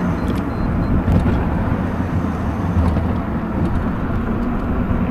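Steady rush of wind and road noise while riding an e-bike, strongest in the low end.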